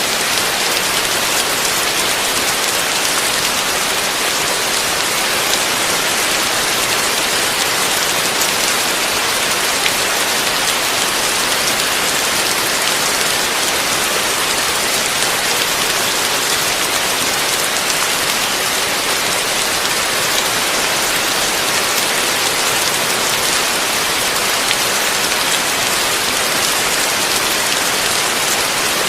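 Heavy rain falling steadily, a dense, even hiss of many drops with no thunder.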